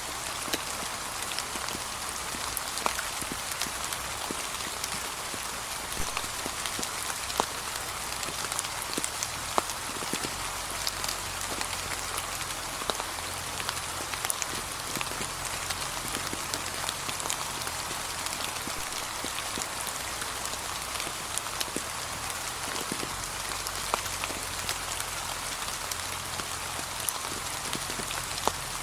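Steady light rain falling, an even hiss with scattered individual drops ticking sharply on a surface.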